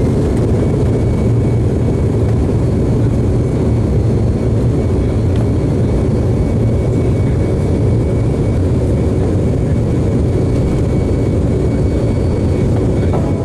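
Airliner cabin noise heard from inside the plane: a steady, loud low rumble of the engines and rushing air.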